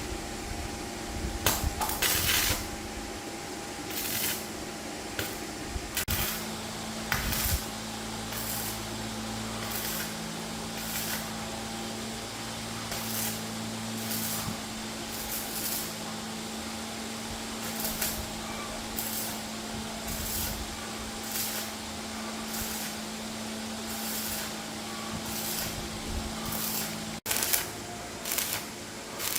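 Workshop tool work: a steady electric hum with short hissing or scraping strokes at uneven intervals, about one every second or two.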